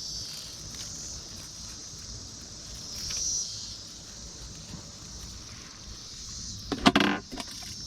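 Chorus of Brood X periodical cicadas: a steady, high-pitched drone that swells briefly about three seconds in. Near the end comes a short loud rustle.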